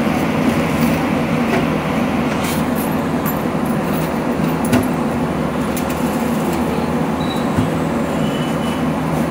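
Steady low rumbling din of a street-food stall, where batter-coated vadas are frying in a large kadai of hot oil, with a few light clicks of utensils.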